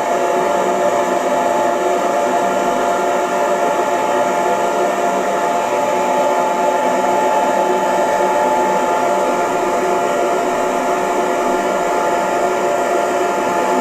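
Hair dryer running steadily: an even blowing rush with a steady motor whine in it.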